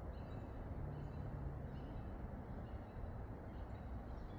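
Steady low rumble of traffic from a nearby highway, with short, faint bird chirps repeating over it.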